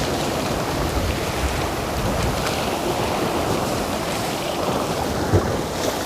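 Sea waves and swell washing, with wind noise on the microphone.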